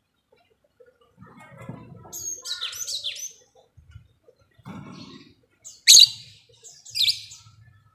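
Lovebird giving shrill, high chirping calls: a chattering burst about two seconds in, then two sharp, loud calls near the end.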